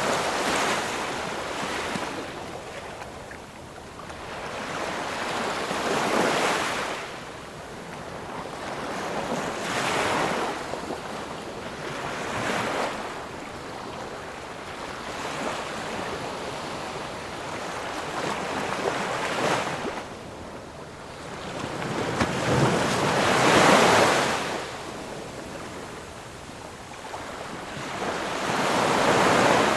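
Ocean surf: waves breaking and washing up the shore, each swelling and fading over a few seconds, the loudest about three quarters of the way through.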